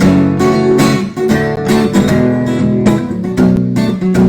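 Guitar strumming chords in a steady rhythm, with no singing over it.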